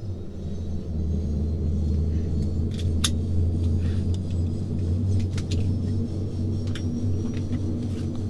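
Saab 340 GE CT7 turboprop engine winding up at start-up, heard inside the cabin beside the propeller: a deep steady drone that comes in suddenly and grows louder over the first second, then holds, with faint rattling clicks from the cabin.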